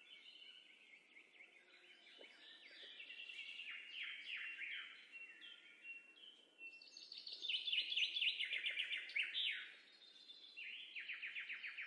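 Several songbirds chirping and trilling, in quick runs of short falling notes. They are loudest a little past the middle and again near the end.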